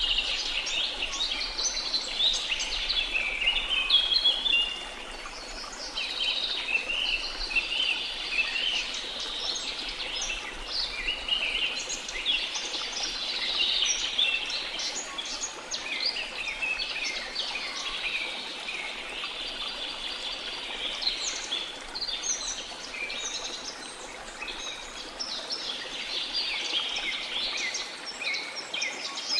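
Many small songbirds chirping and twittering at once, a dense chorus of short, overlapping high chirps and trills. Underneath is a faint, steady wash of noise.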